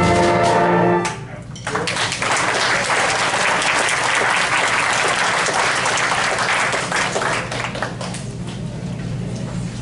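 A band's final held chord cuts off about a second in; after a brief pause the audience applauds, loudest at first and thinning out near the end.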